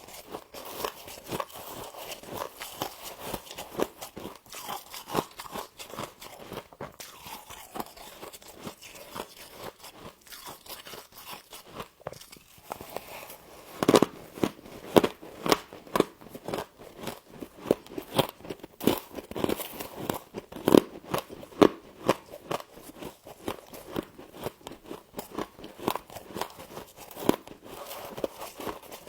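Humidifier-grown frost being bitten and chewed close to the microphone: a steady run of crackling crunches, with louder single bites in the middle.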